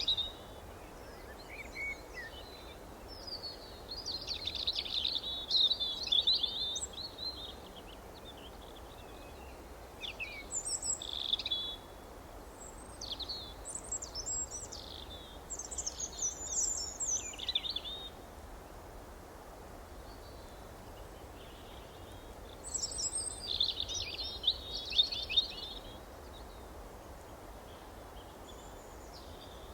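Songbirds chirping and singing in several bursts of quick high-pitched phrases, each lasting a few seconds, with short pauses between them. A steady faint hiss runs underneath.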